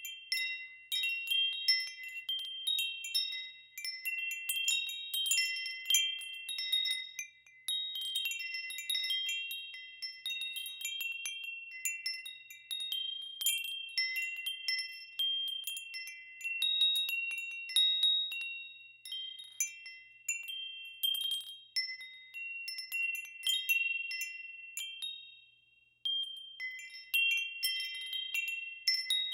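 Metal wind chimes ringing in the wind, their high tubes struck irregularly and overlapping, with a few short lulls.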